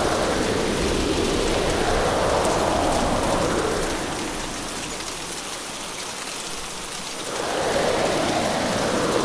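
Heavy hurricane rain and wind, a dense steady rush in swells. It eases for a few seconds about halfway through, then surges back.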